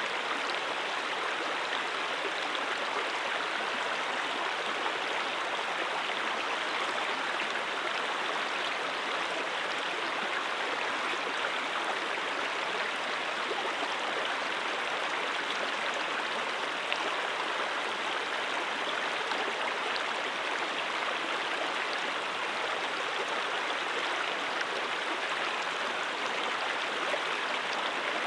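A mountain brook flowing over rocks, with a steady, even rush of water and fine splashing and babbling.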